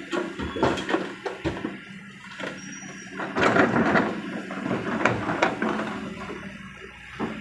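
Kobelco SK200 excavator's diesel engine running steadily, with clanks and knocks throughout. About halfway through, a loud rushing clatter is heard as a bucket load is dumped into the dump truck's bed.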